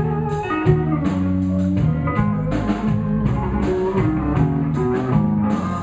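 Live blues band playing an instrumental passage between sung lines: electric guitar over bass and drum kit with a steady beat.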